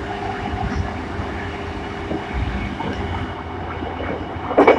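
Running sound inside a JR East E233-1000 series electric train's motor car: a steady rumble of wheels on rail with some rhythmic clatter, and steady tones running underneath. A brief loud clatter comes near the end.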